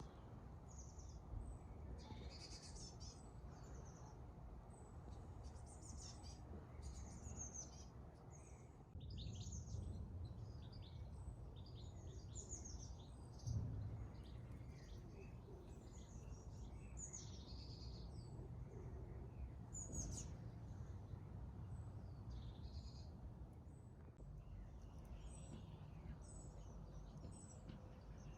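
Garden birdsong: several small birds singing and chirping in short phrases, faint, over a steady low rumble, with a brief low thump about halfway through.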